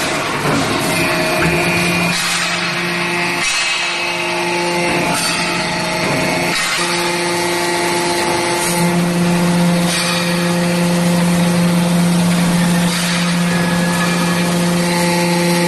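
Horizontal hydraulic baler running: the hydraulic pump and motor give a steady hum over a noisy rattle of machinery, with a few sharp knocks. The hum grows louder about nine seconds in.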